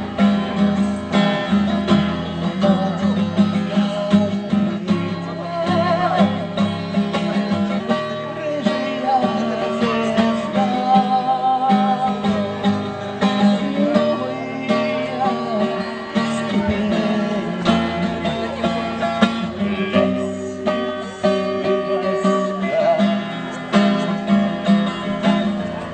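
Acoustic guitar played as song accompaniment in a live bard-song performance, with a wavering melody line above it.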